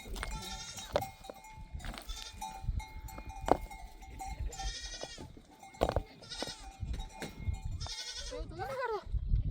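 Goats bleating about five times in high, wavering calls, with a steady bell-like ringing and a few scattered knocks.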